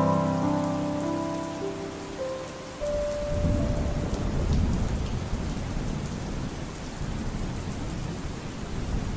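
Steady rain with a long, low roll of thunder that starts about three seconds in, while the held final chord of a song fades out.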